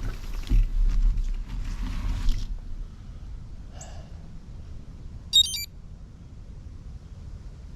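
Mountain bike riding on a trail: low rumble of wind and tyres, loudest for the first two seconds and then quieter, with a short high chirp about five seconds in.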